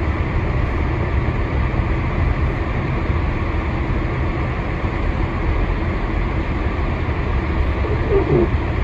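Steady low rumble of a vehicle's engine and tyres heard from inside the cabin while it drives on a snow-covered road.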